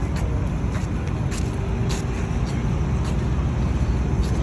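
Steady low rumble of outdoor background noise with a few faint scattered ticks.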